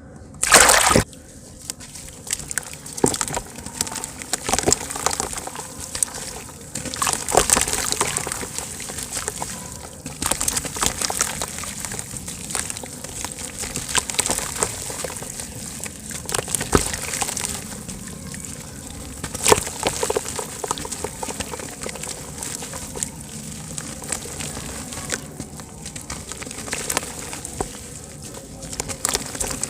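Soft dirt chunks crumbling and breaking apart in water: a steady stream of small crackles and ticks, with a loud burst near the start and scattered sharper clicks.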